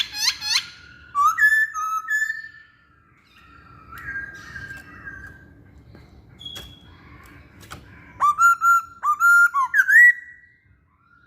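Masked laughingthrush (poksay Hongkong) singing in loud whistled phrases separated by short pauses, the loudest a run of sharp upswept notes near the end.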